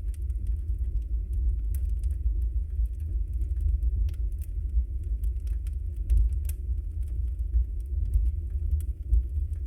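Wood fire burning in a fireplace: a steady low rumble of the flames with frequent small, irregular crackles and pops, one sharper pop a little past the middle.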